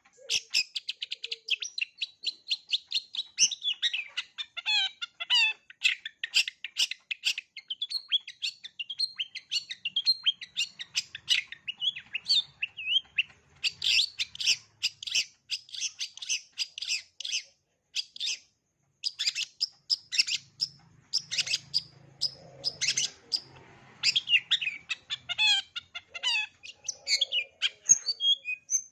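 Long-tailed shrike (cendet) singing a fast, continuous run of short chattering and whistled notes, its song filled with mimicked notes of other birds. There is a brief pause about two-thirds of the way through.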